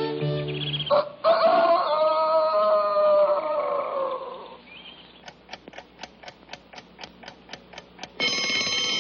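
Cartoon orchestra music fades out, followed by a clock ticking about four times a second. Near the end an alarm clock bell starts ringing, the signal to wake up early.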